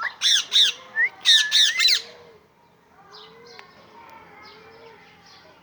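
Pet Alexandrine parakeet giving a quick run of about five loud, harsh squawks over the first two seconds, then only faint chirps.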